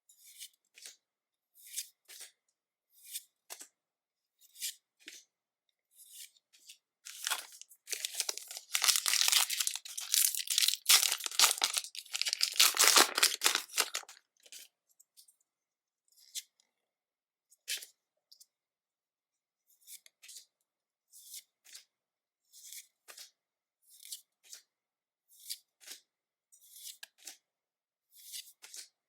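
A Pokémon trading card booster pack's foil wrapper being torn open: a crinkly tearing lasting several seconds in the middle. Before and after it come short, soft swishes of cards being handled and slid one at a time.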